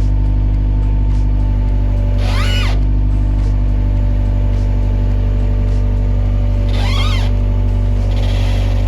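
Skid steer's engine running steadily while a log is handled with a strap. Two brief high sounds rise and fall in pitch, about two seconds in and again about seven seconds in.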